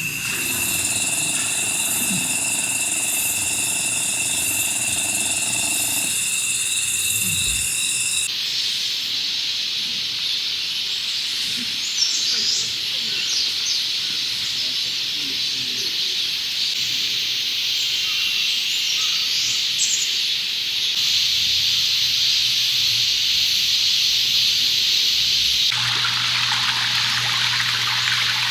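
Valley stream water running and trickling in a steady hiss, getting fuller near the end. For the first several seconds a steady, high insect buzz sits over it, then stops abruptly.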